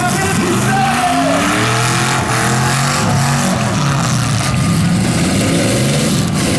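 Several demolition derby cars' engines running at once, revving, their pitches rising and falling over each other.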